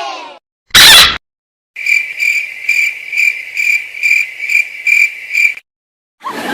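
A short, loud burst of noise, then crickets chirping in a steady high pulse about twice a second for several seconds: the stock cricket sound effect used as the 'awkward silence' gag.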